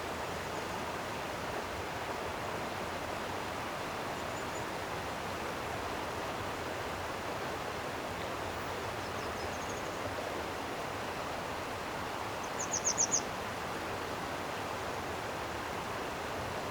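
Steady rush of a flowing stream. About thirteen seconds in, a bird gives a short, quick trill of high notes, with a couple of faint high bird notes before it.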